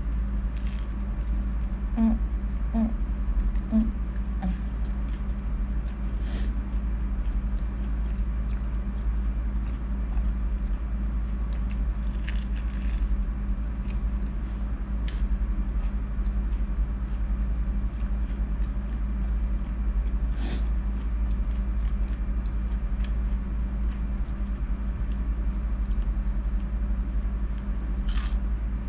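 Biting and chewing on starch-battered fried squid, with a few short crunches spread through, over a steady low hum.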